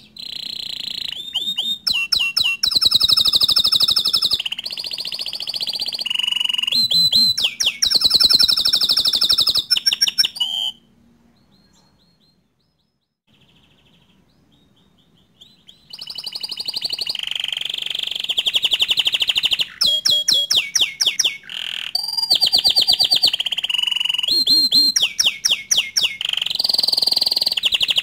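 Green (bottle-green) canary singing long phrases of rapid trills and rolling repeated notes, with a pause of a few seconds near the middle before the song starts again.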